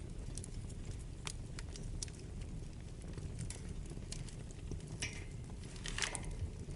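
Wood fire crackling in a fireplace: a steady low rumble of burning under irregular sharp pops, with two louder bursts of crackling about five and six seconds in.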